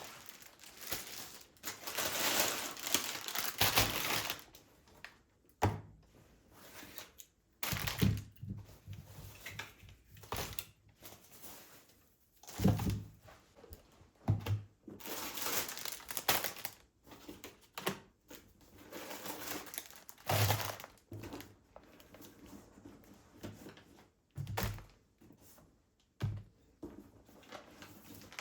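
Everyday handling sounds in a small room: packaging crinkling and rustling, with objects knocked or set down in irregular thunks.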